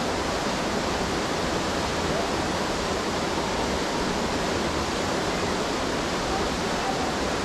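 Class IV whitewater rapid rushing steadily: an even, unbroken wash of river noise.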